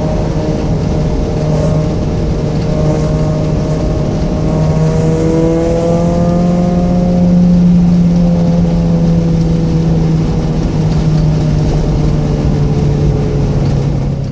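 Mazda Miata's 1.6-litre four-cylinder engine with aftermarket headers and exhaust, running steadily under way. Its pitch climbs a little about four or five seconds in, is loudest around eight seconds, and then eases back down.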